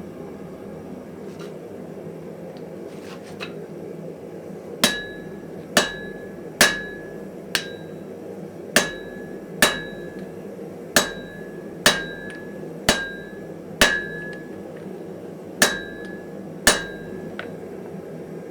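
Blacksmith's hand hammer forging on an anvil: about a dozen blows, roughly one a second, starting about five seconds in, each with a short metallic ring. A steady low hum runs underneath.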